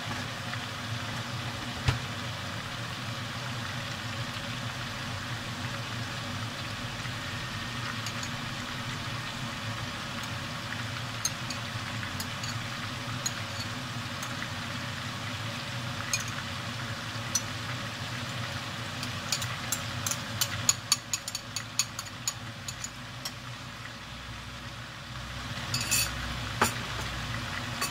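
Eggplants sizzling steadily as they fry in hot oil in a pot, over a low hum. A spoon clinks and scrapes against a glass bowl and pan as tomato paste is scooped into water and stirred, in scattered taps that come thickest about twenty seconds in.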